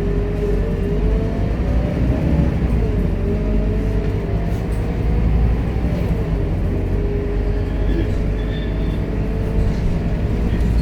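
Scania K230UB city bus running along, a steady low engine rumble with a drivetrain whine that rises and falls slightly as the speed changes.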